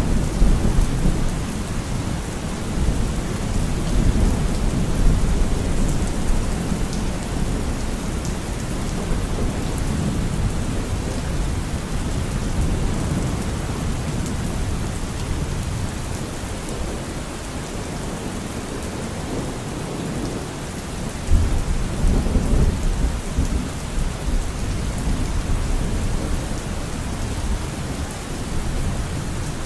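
Steady rain falling, an even hiss, with a low rumble underneath that swells near the start and again about two-thirds of the way through.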